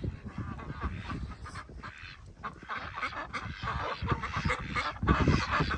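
A flock of Silver Appleyard ducks quacking, growing louder toward the end.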